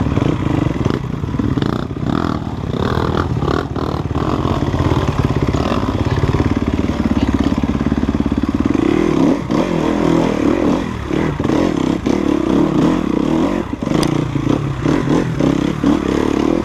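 Enduro motorcycle engine running under constantly changing throttle while being ridden over a rough trail, with frequent short knocks and rattles from the bike over the ground.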